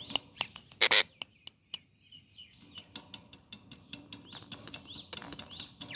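Pet parrot making short chirps that rise and fall, with a loud short burst about a second in and scattered sharp clicks. The chirps pause for a couple of seconds and start again near the end.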